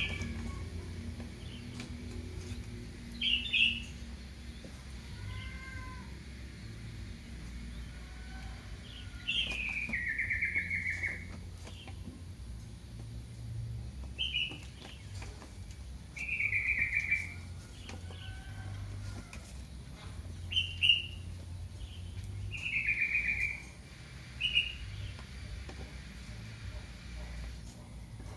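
Young kitten mewing for its mother: high, thin calls repeated about every two to three seconds, some short and some longer ones that slide down in pitch.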